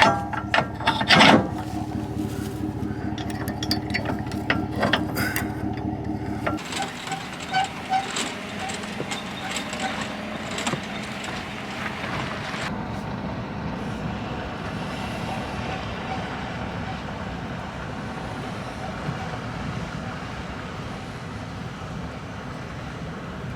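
Combine engine running steadily, with a few knocks and clanks in the first seconds. About six seconds in the sound changes abruptly to a noisier, steady machine sound that carries on.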